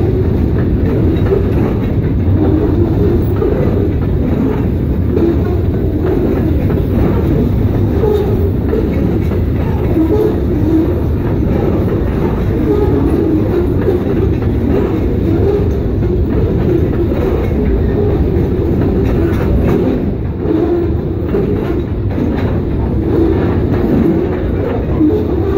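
Freight train cars rolling past over the rails: steady wheel-on-rail noise with continuous clatter.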